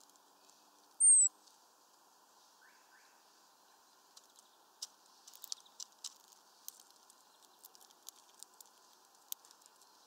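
A small bird gives a single high, thin call note about a second in, falling slightly in pitch. In the second half come faint, irregular clicks and taps.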